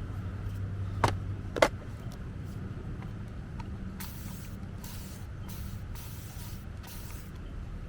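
Watercolor pencil strokes scratching on synthetic Yupo paper, several short strokes in the second half, over a steady low hum. Two sharp clicks come about a second in.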